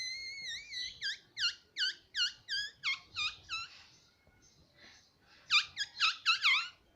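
Pet pahadi parrot (Alexandrine parakeet) calling: one wavering call, then a quick run of about eight short squeaky calls, a pause, and a second, louder run of about six.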